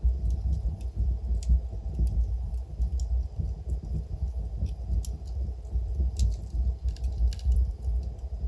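Wood fire burning in a fireplace: burning logs give irregular sharp crackles and pops, about one a second, over a steady low rumble.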